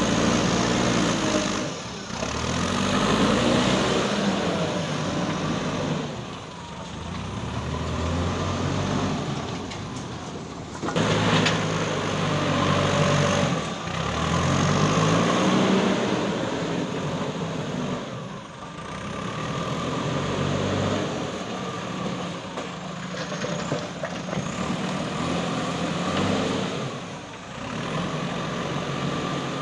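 Diesel engine of a JCB 3DX Super backhoe loader revving up and down again and again as it works the hydraulics to dig and load a dumper.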